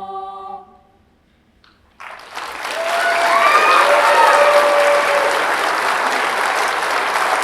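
A choir's final held chord fades out, followed by a second of hush. Then the audience bursts into loud applause that swells and holds, with a few cheering voices over it.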